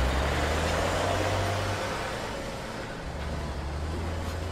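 A vehicle engine running steadily with a low hum, which fades for about a second midway and then comes back.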